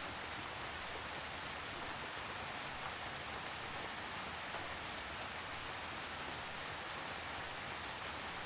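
Steady gentle rain, a drizzle falling as an even hiss with faint scattered drop ticks.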